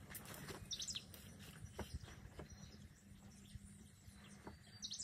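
Faint outdoor ambience: bird chirps, with a quick cluster of high chirps about a second in, over a low steady rumble and a few light clicks.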